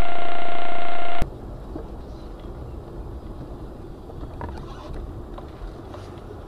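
A loud, steady pitched tone cuts off abruptly about a second in. It is followed by the low, steady rumble of a car driving, with a few faint clicks.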